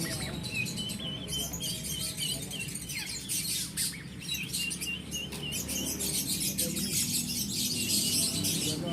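Songbirds chirping: a rapid run of short, high chirps repeated again and again.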